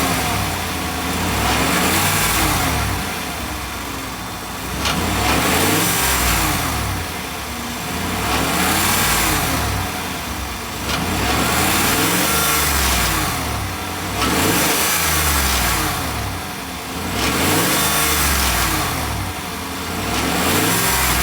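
Suburban's engine revved up and let fall back about six times, heard from underneath the vehicle, with a rattle that does not follow the engine revs. The rattle comes from the exhaust, which the owner puts down to a loose exhaust clamp.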